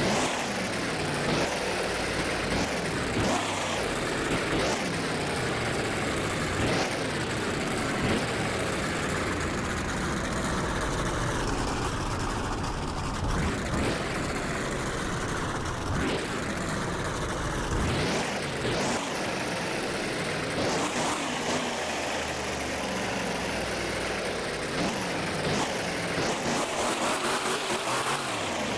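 Truck engine revving hard again and again, the pitch climbing and dropping every second or two over a steady engine noise.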